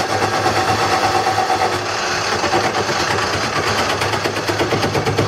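Wood lathe running while a turning tool cuts a tenon on a bowl blank: a fast, even scraping chatter over the lathe motor's steady hum.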